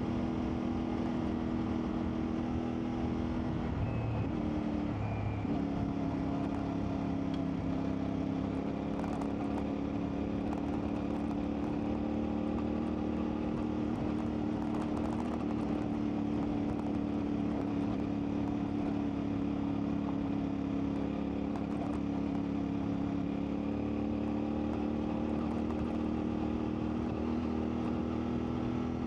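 CFMoto 450MT's parallel-twin engine running at a steady engine speed under way, with a brief dip and recovery in engine pitch about four to five seconds in.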